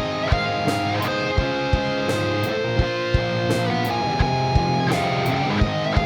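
Instrumental passage of a rock song with no singing: strummed electric guitar over bass, with a steady drum beat of regular low thumps and crisp high hits.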